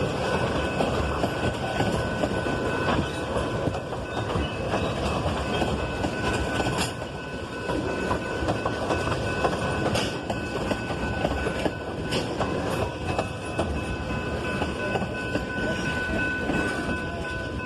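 Freight train rolling past: a steady rumble of wheels on rail with scattered clicks and clacks over the joints, and a thin steady high whine in the background.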